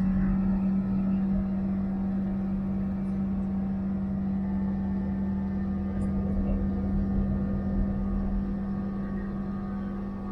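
Diamond DA-20 light aircraft's 100-horsepower engine and propeller running with a steady, even drone.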